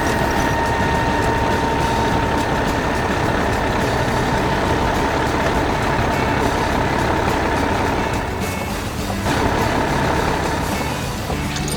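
Heavy machine's diesel engine running steadily, with a steady high tone held over it that fades near the end.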